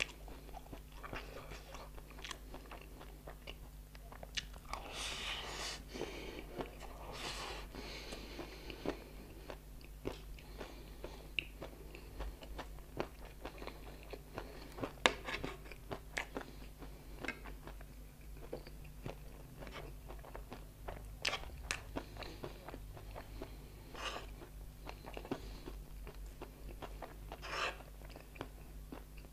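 Close-up crunching and chewing of dry chatpate, a crunchy spicy Nepali snack, eaten by the spoonful: many sharp, irregular crunches with chewing between them.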